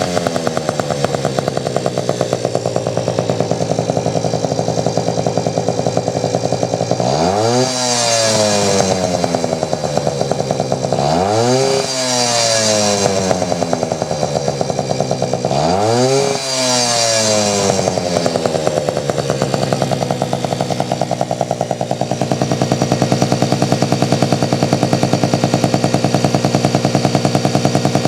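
Yamaha QT50 moped's 49cc single-cylinder two-stroke engine, breathing through a Kawasaki KX250 muffler on a modified exhaust. Its revs climb sharply three times, each time sinking back slowly over a few seconds, then it runs at a steady, even pitch that gets slightly louder toward the end.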